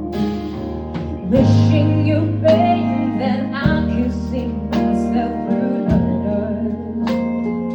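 Live jazz-pop band playing a slow ballad: held bass notes and chords, with a melody line that slides in pitch over the top and a few light percussive strokes.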